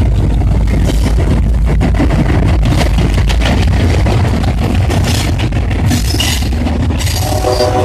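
Train passing close by: a heavy low rumble from the locomotive and rail cars, with wheels clacking over the rail joints. The train horn sounds again near the end.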